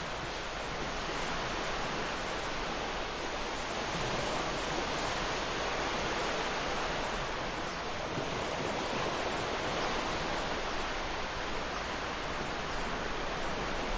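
Ocean waves breaking and washing up on a sandy beach, a steady rushing surf that swells and eases slowly.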